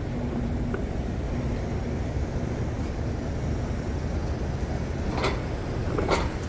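Steady low rumble of city street traffic, with two short knocks near the end.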